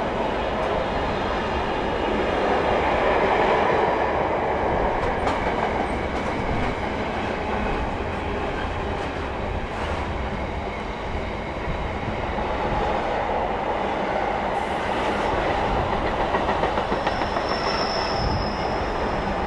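Container flat wagons of a passing intermodal freight train rolling by, a continuous rumble with rhythmic clickety-clack of wheels over the rail joints. A brief high-pitched tone sounds near the end.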